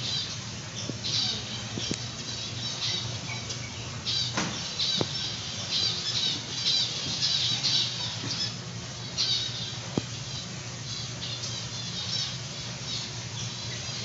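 Many birds in an indoor aviary chirping and squawking in quick repeated bursts, over a steady low hum.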